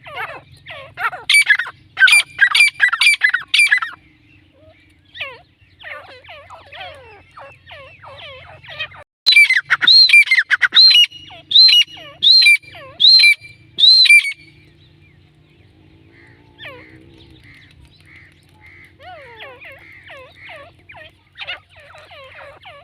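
Grey francolin (teetar) calling: two loud series of short, repeated notes, one in the first few seconds and another from about nine to fourteen seconds in, with fainter chirping and twittering between them.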